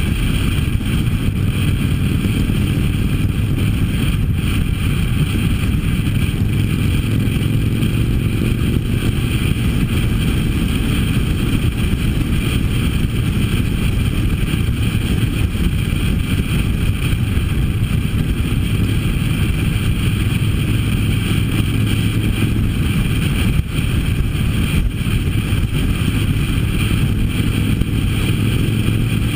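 Harley-Davidson motorcycle V-twin engine running steadily at cruising speed, with wind rushing over the microphone.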